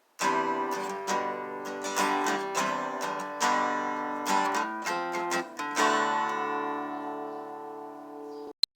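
Acoustic guitar music: a run of strummed and plucked chords, then one final chord held and left to ring, fading until it cuts off suddenly near the end.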